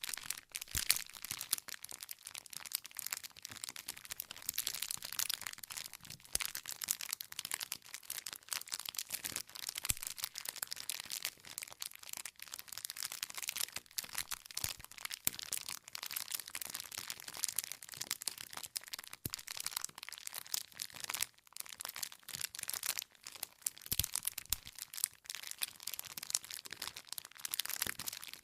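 Campfire crackling steadily: wood burning with a constant stream of small snaps and hiss, and now and then a louder pop as a log bursts.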